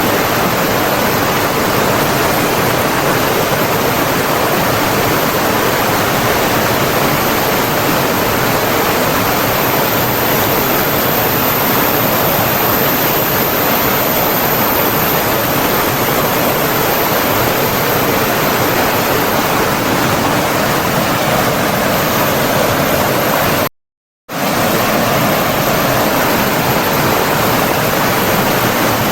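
Flowing water, a stream or waterfall, making a steady, dense, even hiss. It cuts out completely for about half a second a little past two-thirds of the way through, then resumes unchanged.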